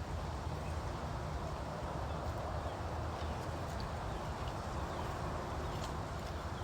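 Footsteps on a dry scrub trail, with faint scattered ticks over a steady low rumble of wind and handling on the microphone.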